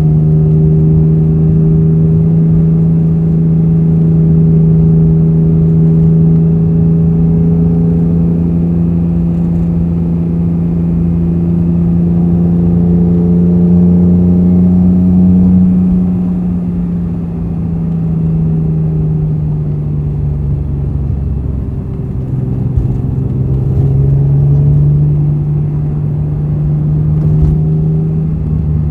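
Honda NSX's V6 engine and titanium aftermarket exhaust droning steadily at cruise. The pitch creeps up, eases off as the car slows about two-thirds of the way in, then climbs again near the end.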